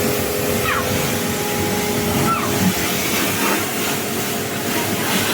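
Pressure washer running and spraying water, a steady hiss, with a few faint short chirps over it.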